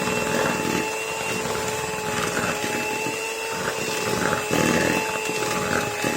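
Electric beater running at high speed, creaming butter and sugar: a steady motor whine with a few held tones.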